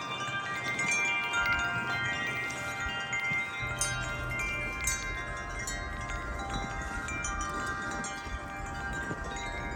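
Several tuned metal wind chimes ringing in gusty wind: many long, overlapping tones, with fresh strikes every so often.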